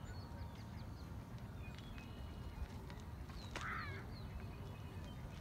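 Birds chirping with many short, high, falling notes, and one harsh call about three and a half seconds in, over a steady low background rumble.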